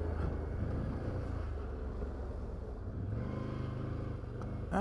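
Can-Am Outlander 850 XT ATV's V-twin engine running at low trail speed, its revs picking up about three seconds in. A brief knock near the end.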